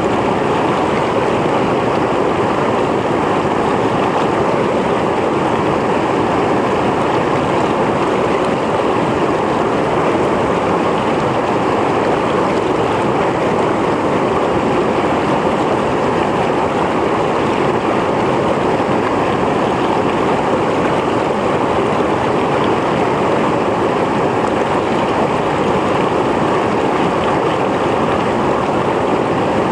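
Mountain stream running over rocks: a steady, dense rush of water with no letup.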